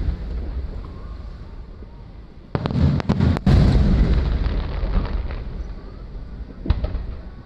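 Aerial firework shells bursting overhead: a quick cluster of sharp bangs about two and a half seconds in, then a long rolling rumble, and one more bang near the end.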